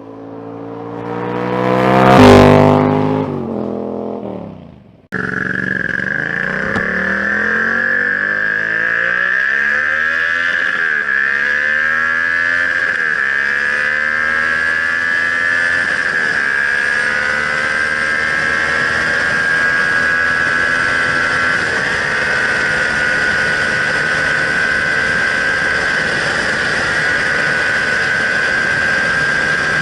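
A Yamaha MT-07 with an aftermarket exhaust passes by loudly, its parallel-twin note dropping in pitch as it goes. About five seconds in it cuts to the engine running continuously, revs rising and falling at first and then holding steady under a high whine.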